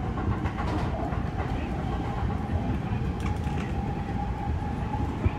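Seibu Railway electric train running along the line, heard from inside the front car. A steady rumble of wheels on rail, with a held whine above it from about a second and a half in, and a few light clicks.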